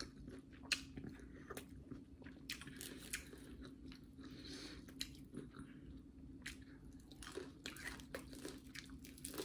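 Close-up chewing and biting into sauce-coated fried chicken, with scattered crisp crunches of the breading between quieter mouth sounds.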